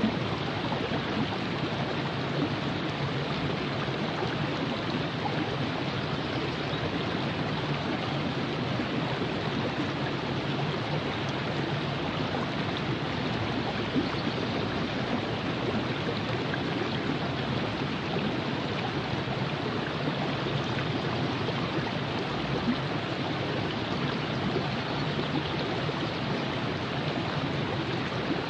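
A river flowing over rocks, a steady rushing and babbling of water.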